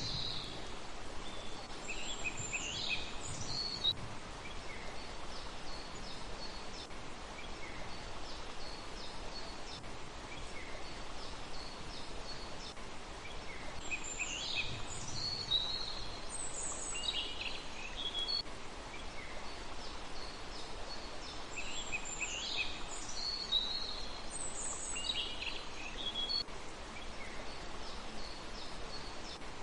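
Songbird calling in short phrases of quick falling notes, three times, about every ten seconds, with faint high chirps in between, over a steady background hiss.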